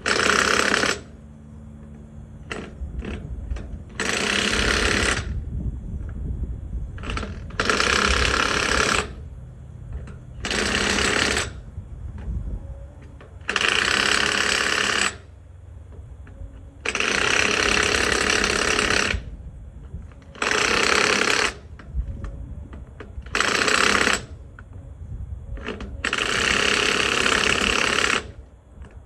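Impact wrench hammering lug nuts tight on an M1078 LMTV truck wheel, in about nine bursts of one to two seconds each with short pauses between. A low steady rumble runs underneath.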